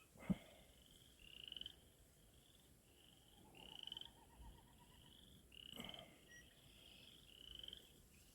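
Faint chorus of frogs, short rising trills repeating about once a second. A sharp knock sounds just after the start and a lighter click about six seconds in.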